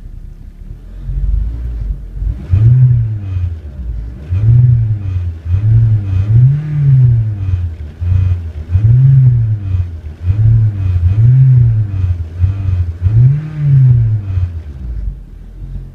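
2008 Honda Civic 1.8-litre four-cylinder engine idling, then revved up and let back down repeatedly, about every two seconds, before settling back to idle near the end. It revs up nice and smooth, a sign of a healthy engine.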